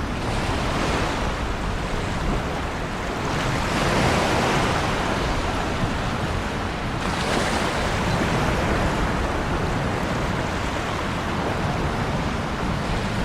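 Ocean waves breaking and washing on the shore, a steady rush of surf that swells as a wave breaks about four seconds in and again around seven seconds.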